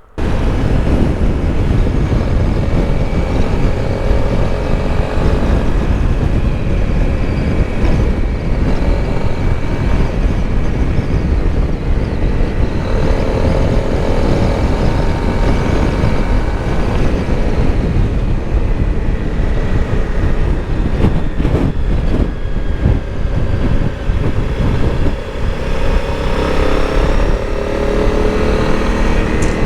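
Honda CRF motorcycle being ridden at road speed: steady wind rush over the microphone with the engine note running underneath, its pitch drifting slightly a few times.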